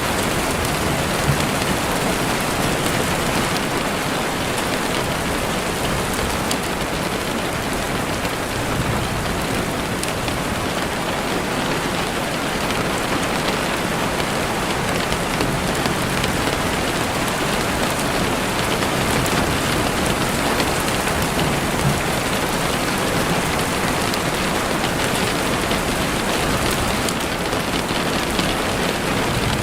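Heavy rain falling steadily on a window, a dense even hiss with occasional faint drop ticks.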